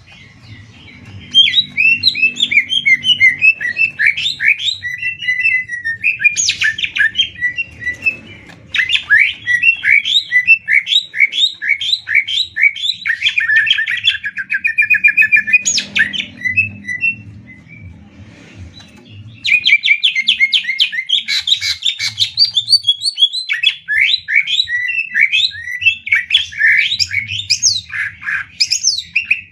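Green leafbirds (cucak ijo) singing against each other in a song duel: fast, chattering, rapid-fire song in long runs, broken by short pauses about eight seconds in and again around eighteen seconds.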